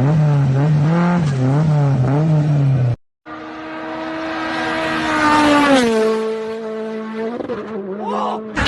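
Car tyres squealing under hard braking or a skid, a loud wavering tone that stops abruptly about three seconds in. A second long tyre squeal follows: it builds, then drops in pitch and fades near the end.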